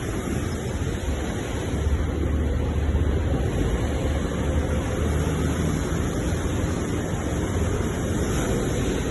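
Sea waves washing onto the shore in a steady, continuous rush of surf with a deep low rumble.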